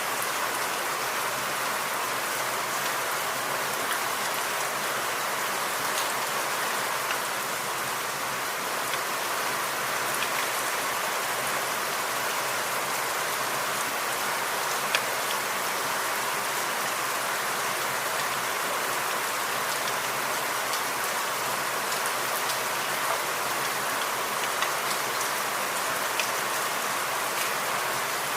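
Steady rain falling in a forest, with scattered louder single drops striking close by, one sharper than the rest about halfway through.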